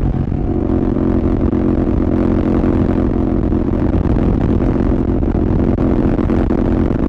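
Royal Enfield Continental GT 650's parallel-twin engine through a Red Rooster aftermarket exhaust, running at steady cruising revs: an even, unchanging drone over wind and road noise.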